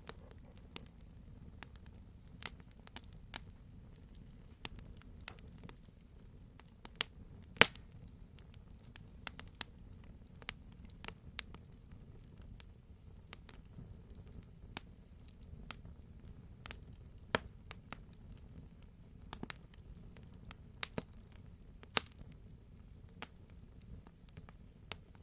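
Burning logs in a campfire crackling, with irregular sharp pops over a steady low rumble. A few louder pops stand out, two of them close together about seven seconds in and another near twenty-two seconds.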